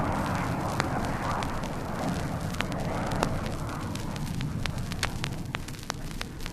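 The low rumble of an explosion dying away slowly, heard from a vinyl LP with many sharp clicks and pops of record surface noise over it.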